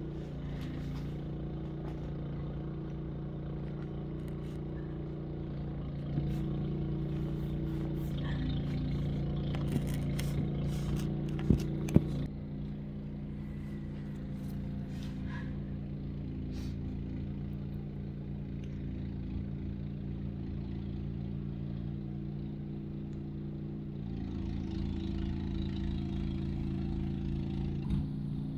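A motor or engine running steadily with a low, even hum. It grows a little louder for a few seconds partway through, and two sharp clicks sound together about twelve seconds in.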